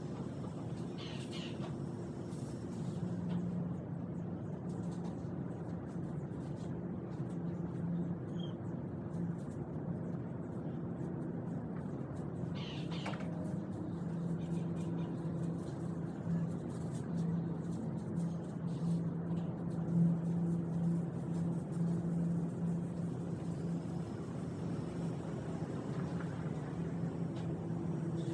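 A steady low mechanical hum, with two brief high squeaks: one about a second in and one near the middle.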